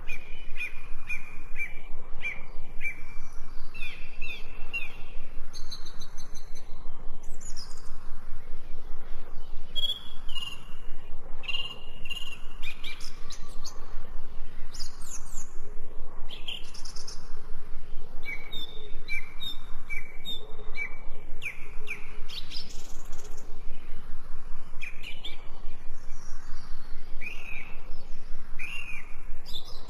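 Several wild birds chirping and singing, with runs of short repeated notes and quick whistled glides overlapping one another.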